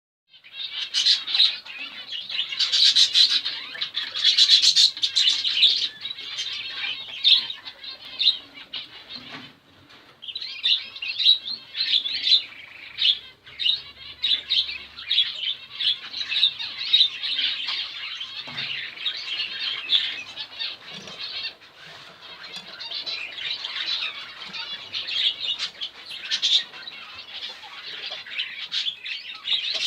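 Many small cage birds chirping and twittering together in a dense, continuous high-pitched chatter, easing briefly about a third of the way through.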